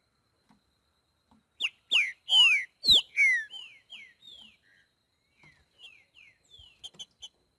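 Green-winged saltator (trinca-ferro) of the boiadeiro song type, singing. About a second and a half in it gives a loud phrase of clear whistles that slide downward, then follows with softer, shorter whistled notes.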